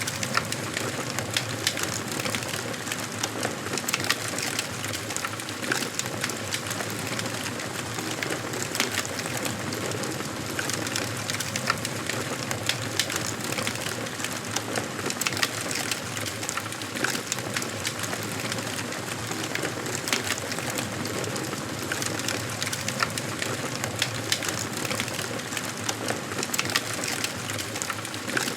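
Wood fire burning in a fireplace: a steady hiss of flames with frequent, irregular sharp crackles and pops from the burning logs.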